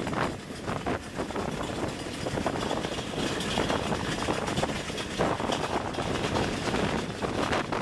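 Wind rushing over the microphone from a moving passenger train, over the running noise of the train as it accelerates behind twin WDM-3A diesel locomotives.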